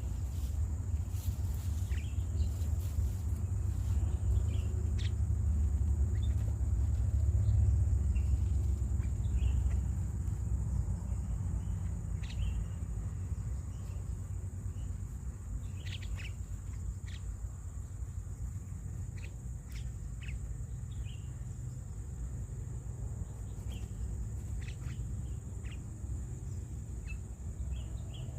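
Short bird chirps scattered through the stretch over a steady high insect drone, with a low rumble that is louder in the first ten seconds or so.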